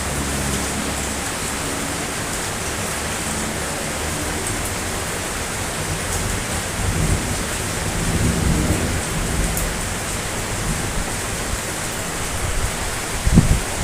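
Steady, heavy rain hissing, with low rolls of thunder swelling about halfway through and a louder rumble near the end.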